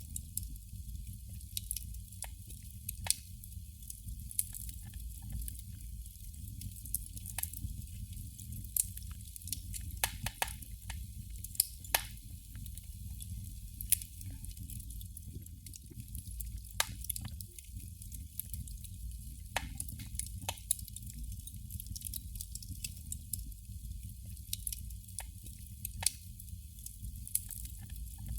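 Candle flame crackling: irregular small pops and ticks, a handful noticeably louder, over a steady low hum.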